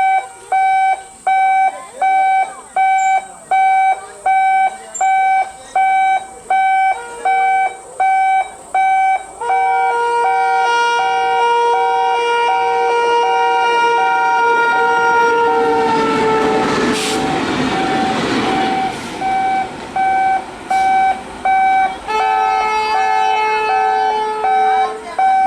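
Level-crossing warning alarm beeping steadily about one and a half times a second. About a third of the way in, an Indian Railways electric locomotive's horn sounds one long blast that drops in pitch as it passes, followed by a rush of noise as the train goes by. A second horn blast comes near the end.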